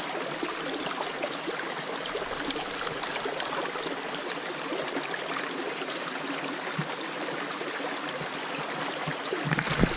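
Creek water running through small channels: a steady, even rush of flowing water.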